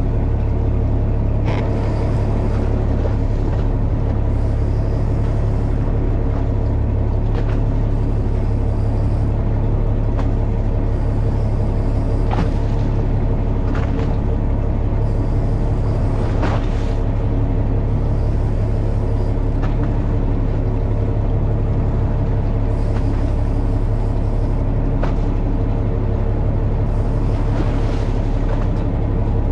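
Fishing boat's engine running steadily with a low rumble, with a few scattered knocks.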